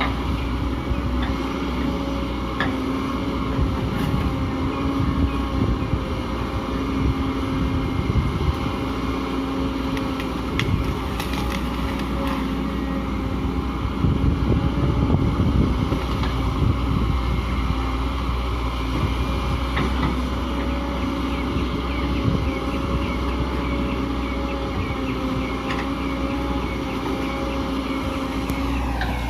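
Excavator's diesel engine running steadily, with a few short clanks over it. Near the end the engine note drops.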